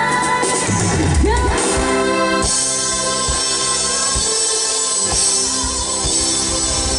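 Live pop band music. A sung vocal line ends about two seconds in, and the band plays on without singing.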